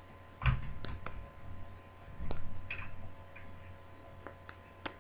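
Scattered small clicks and taps of hands and a tool working on a laptop's plastic case parts and cable connectors during disassembly, with duller knocks about half a second and two seconds in.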